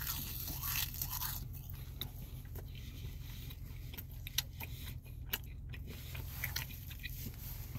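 A person chewing fast-food French fries close to the microphone: scattered small wet clicks and smacks of mouth and jaw. A low steady hum sits underneath.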